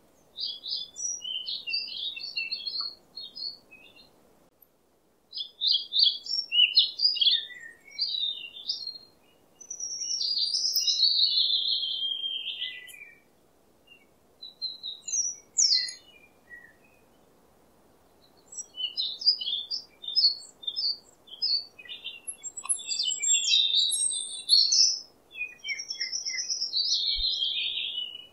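Wild forest songbirds singing and calling in phrases of quick, high chirps broken by short pauses, with a longer falling warble around the middle.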